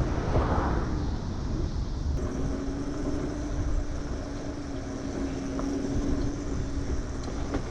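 Wind rumbling on the microphone and road noise from an electric moped riding along at speed, with a steady low whine under it from about two seconds in.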